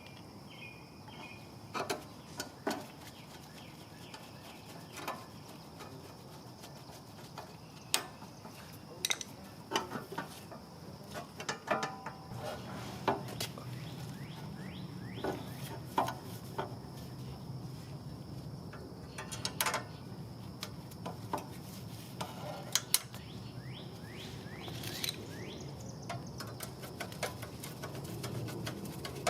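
Irregular metallic clicks and taps of hand tools on the pressure washer's frame and hardware, over a steady high-pitched whine and a low background hum.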